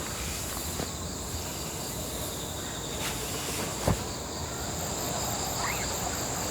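Insects calling steadily in the forest, a continuous high shrill with a second, rapidly pulsing very high call joining about five seconds in. One short knock a little before four seconds in.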